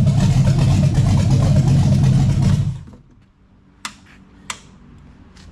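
Chevrolet small-block 350 V8 on an engine run stand running during its first run, then shut off and dying out about two and a half seconds in. Two sharp clicks follow about a second later.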